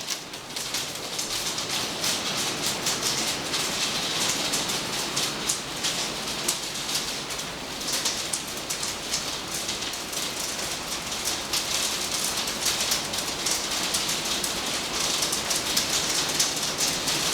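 Hailstorm: hailstones falling and striking hard surfaces, a dense, steady run of many small impacts with sharper clicks scattered throughout.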